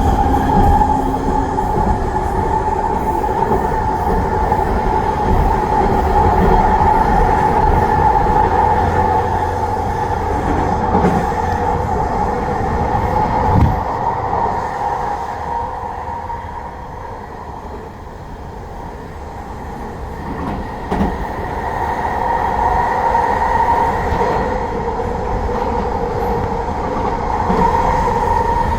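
SkyTrain running through the station with a steady electric whine over wheel and track rumble. It fades about halfway through, then grows loud again.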